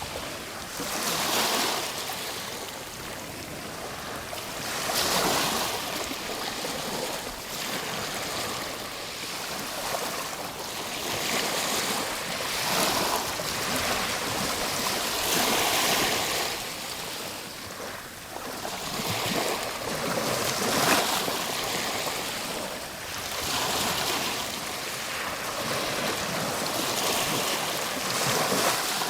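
Ocean waves breaking and washing onto a shore, a steady rush of surf that swells and falls every few seconds.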